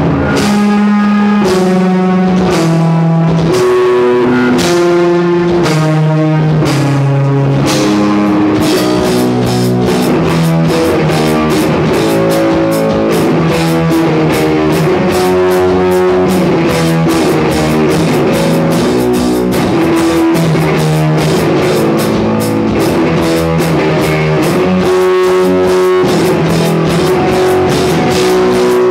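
Rock music with guitar and drum kit. The opening bars are held chords, and the drumming becomes steady and busier about eight seconds in.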